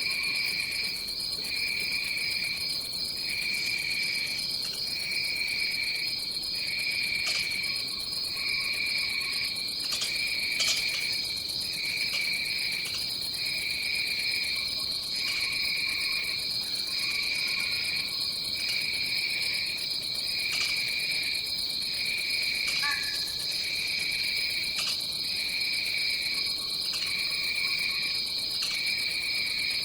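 Tropical rainforest insect chorus: one insect trills steadily and high, while a second, lower insect sings in regular phrases about a second long. Faint brief calls from other animals come and go underneath, including a short falling call about two-thirds of the way through.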